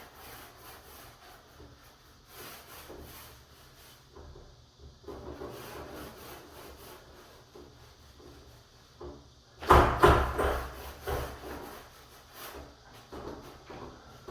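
Irregular rubbing strokes on a wooden door surface, with a louder run of strokes about ten seconds in.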